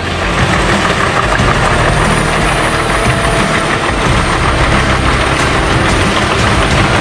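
Large wood chipper with its heavy diesel engine running steadily. A thin high whine joins it about two seconds in.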